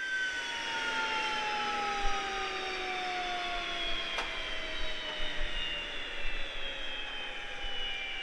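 Jet fighter engine whine and rush starting abruptly, with several whining tones that fall slowly and steadily in pitch throughout.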